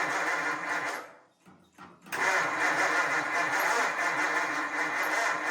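Flathead V8 being cranked over by its starter without catching: one cranking attempt stops about a second in, and a second starts about a second later.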